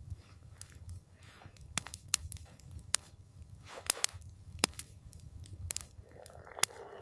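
Wood campfire crackling, with irregular sharp pops and snaps over a low steady rumble of the burning fire, and a soft rushing noise rising near the end.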